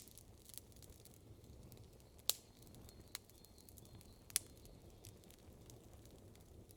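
Wood campfire crackling quietly: three sharp pops in the middle, about a second apart, over a faint steady low background noise.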